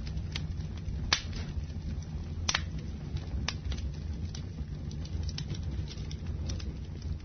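Wood fire in a fireplace crackling: irregular sharp pops and snaps over a steady low rumble of the flames. The loudest pops come about a second in and about two and a half seconds in.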